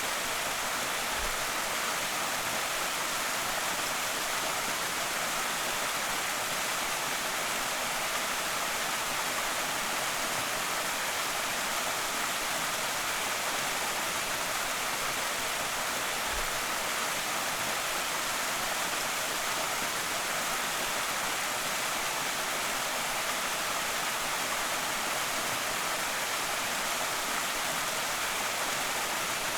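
Small creek waterfall: water pouring and splashing in a steady, even rush, mostly high hiss with little low rumble.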